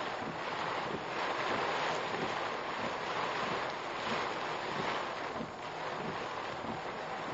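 Typhoon wind and heavy rain on a car, picked up by a dashcam microphone: a dense rushing noise that swells and eases, with scattered small knocks.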